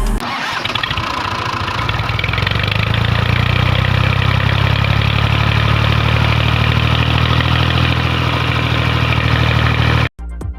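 A small engine running steadily at a low, even speed, cutting off abruptly near the end. It is most likely the engine of a home-built mini tractor.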